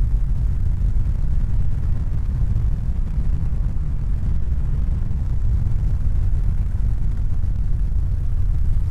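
Steady deep rumbling noise, even and unbroken, with most of its weight in the bass and no distinct tones or events.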